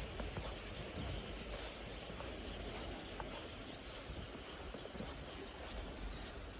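Footsteps crunching through snow, with wind rumbling on the microphone.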